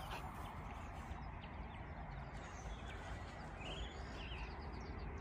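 Bird chirping: a couple of short, quick calls near the middle, over a steady low outdoor noise.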